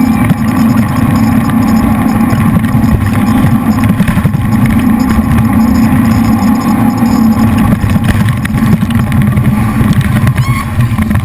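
A jet boat's three V8 engines running hard, a loud, steady drone.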